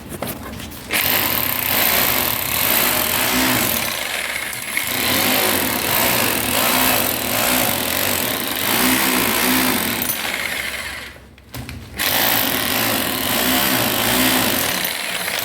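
Electric rotary hammer drill in hammer-only (chisel) mode, chipping into a masonry wall. It starts about a second in, cuts out briefly near the three-quarter mark, then starts again.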